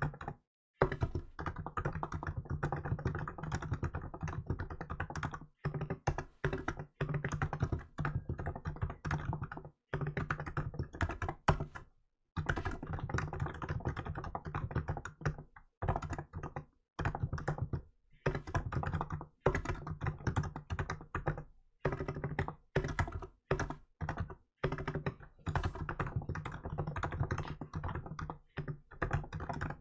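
Continuous typing on a Hansung GK868B electrostatic-capacitive keyboard with milk keycaps: quick runs of key presses broken by short pauses every second or two.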